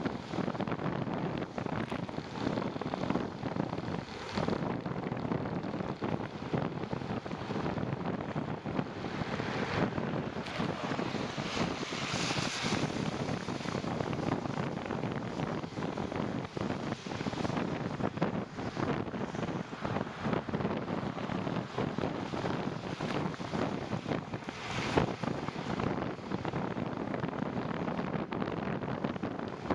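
Wind buffeting the microphone of a moving bicycle rider: a steady rushing noise broken by many irregular gusts and pops.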